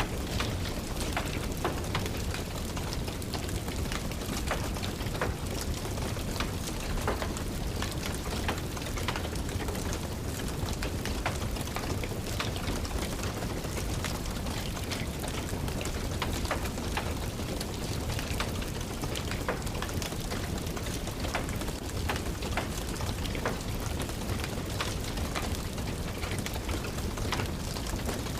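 Steady rain mixed with a crackling wood fire: an even hiss and low rumble, dotted with many small sharp crackles and drips.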